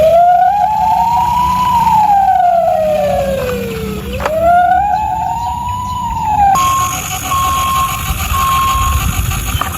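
Toy ambulance's electronic siren wailing, one slow rise and fall about every four seconds; about six and a half seconds in it switches to a steady tone that keeps switching on and off.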